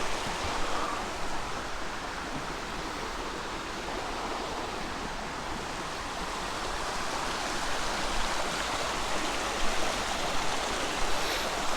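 Creek water running steadily, a continuous rushing hiss with no let-up.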